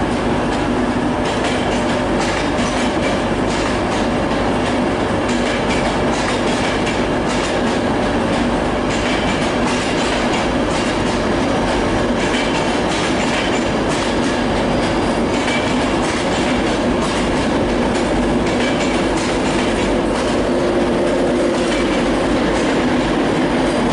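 An East Coast Main Line express train pulling out, its coaches rolling past with a steady drone and wheels clicking over the rail joints.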